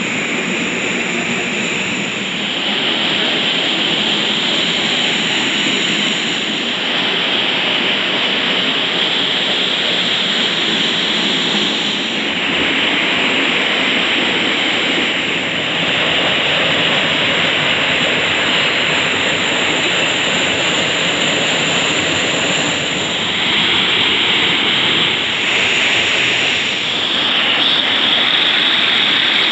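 Waterfall pouring into a pool: a loud, steady rush of water.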